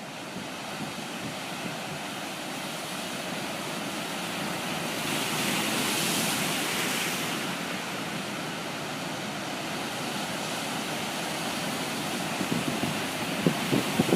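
Large storm waves on Lake Michigan, driven by Hurricane Sandy, rushing and breaking on the shore, with a wave swelling to its loudest about six seconds in. Gusts start to buffet the microphone near the end.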